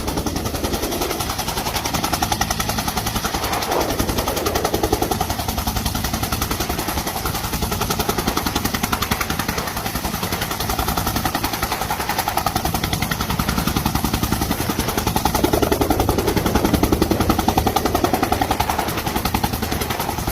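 Bell UH-1H Huey helicopter's two-blade main rotor making its rapid, even blade-slap thumping over the running turbine engine. The sound swells and eases in loudness as it goes.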